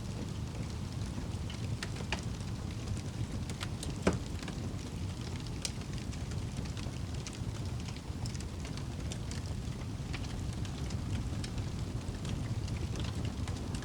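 Wood fire burning in a fireplace: a steady low rumble with scattered crackles, and one loud pop about four seconds in.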